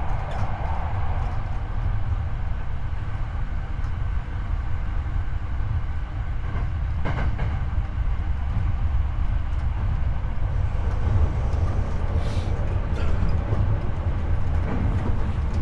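Hankyu 8300 series commuter train running, heard from the floor of the car over a bogie: a steady deep rumble of wheels on rail with track noise, and a sharp knock about seven seconds in.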